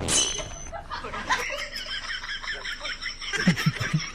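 People laughing and talking, breaking into a quick rhythmic run of laughter near the end.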